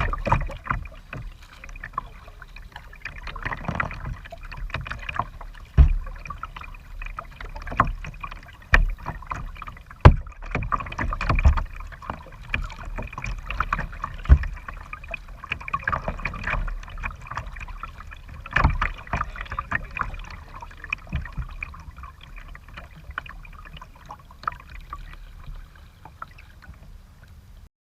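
Kayak being paddled: paddle blades dipping and splashing in the water, with irregular sharp knocks, the loudest about 6, 10 and 19 seconds in. The sound cuts off suddenly near the end.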